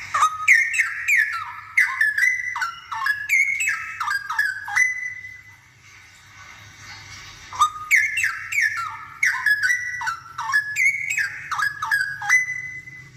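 Straw-headed bulbul (cucak rowo) singing: two loud phrases of rapid, liquid whistled notes sliding up and down, each ending on a held note, with a pause of about two seconds between them.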